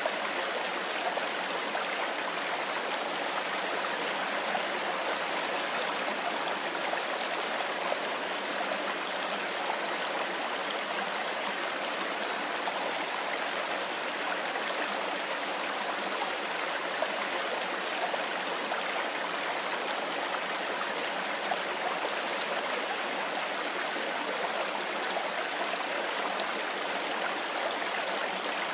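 Mountain river flowing steadily over stones, a continuous rush of water with small splashes.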